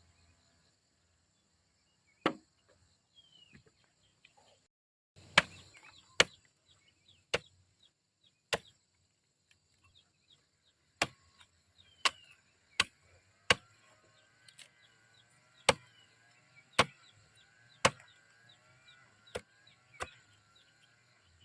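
Chopping with a blade, about fourteen sharp strokes at irregular intervals of roughly a second, over a steady high buzz.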